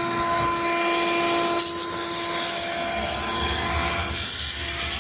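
Optima DMF steam cleaner running: a steady motor whine under a rushing jet hiss. The hiss gets louder about a second and a half in.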